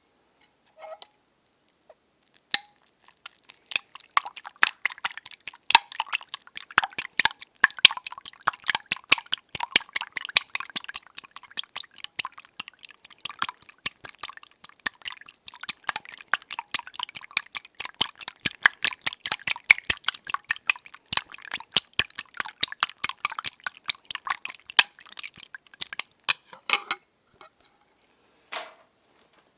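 Eggs being beaten in a bowl: a rapid, continuous run of wet clicking and clinking that starts about two seconds in and stops near the end, with a few single taps around it.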